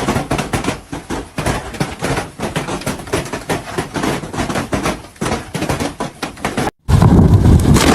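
A rapid, irregular run of knocks and clattering impacts, then, after a brief cut near the end, a loud low rumble.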